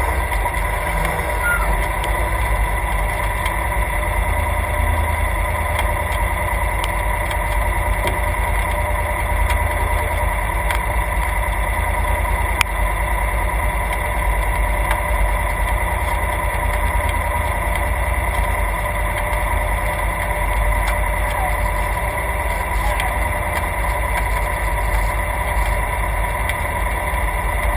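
Class 3 off-road race vehicle's engine idling steadily while stopped, a low rumble with a steady high tone over it, and a single sharp click about halfway through.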